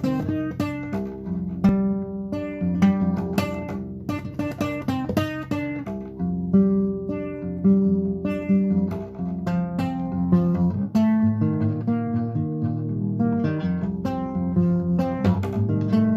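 Acoustic guitar playing, plucked notes and strummed chords in a continuous instrumental passage.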